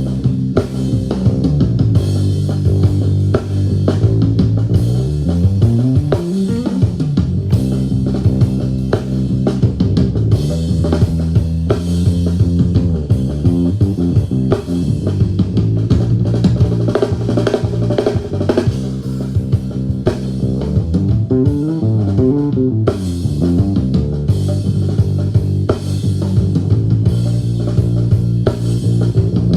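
Band music playing back from a multitrack session: drum kit, bass guitar and guitar together. It starts abruptly at the beginning and runs without a break, with the bass sliding up and down in pitch several times.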